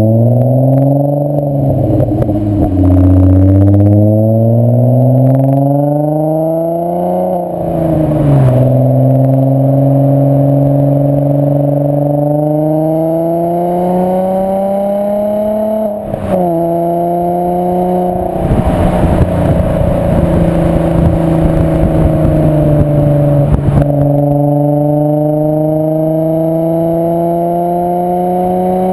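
VW Bora/Jetta mk4's 2.8 VR6 24-valve engine through a straight-through, non-resonated Milltek exhaust, pulling up through the gears. The pitch climbs, drops at each of several upshifts, holds steady for a stretch past the middle, then climbs again near the end.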